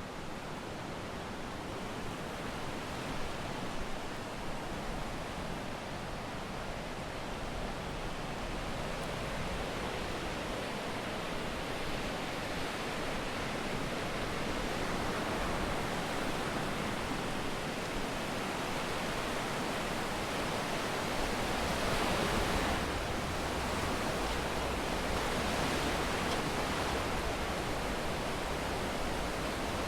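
Sea waves breaking and washing up on a sandy beach, a steady rushing surf that grows slowly louder, with bigger breakers swelling up about halfway through and again about three-quarters through.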